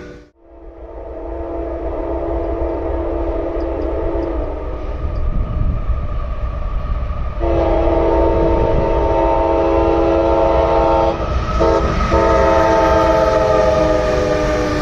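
Locomotive multi-chime air horn sounding a long, steady chord over the rumble of a passing freight train. The sound cuts out for a moment at the very start. The horn comes in louder about seven seconds in, with two brief breaks near the end.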